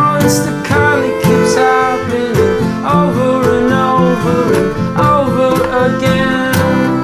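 Acoustic music with plucked guitar strings playing a moving line of notes, between sung verses.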